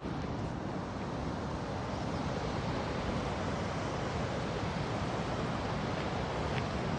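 River water rushing steadily, an even noise with no distinct events.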